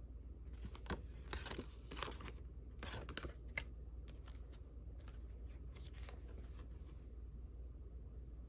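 Old postcards being handled and slid against one another, a series of short, faint paper rustles and scrapes that die away near the end.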